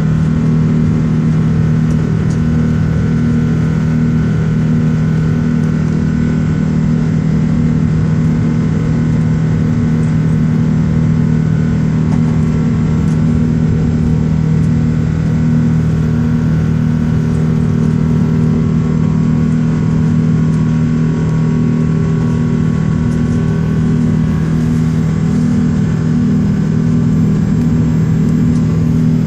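Airbus A380's engines running steadily at high power: a loud, unbroken drone with a strong low hum.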